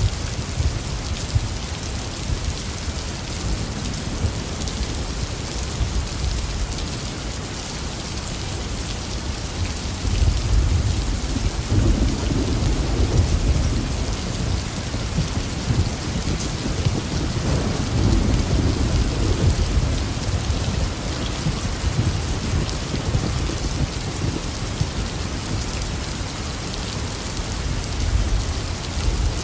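Heavy rain falling steadily, with low rolling thunder that swells about ten seconds in and rumbles on for about ten seconds, then rumbles again briefly near the end.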